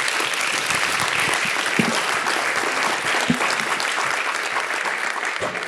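Audience applauding, dense and steady, fading out near the end.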